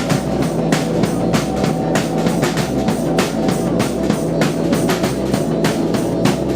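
Live psychedelic rock band playing a steady, driving drum beat, about four hits a second, over sustained droning bass and chords.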